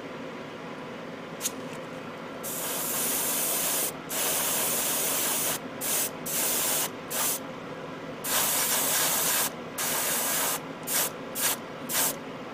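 Airbrush spraying paint onto model-kit parts in hissing bursts: two long sprays, a run of short puffs, two more long sprays and more quick puffs near the end, over a faint steady hum from the air compressor.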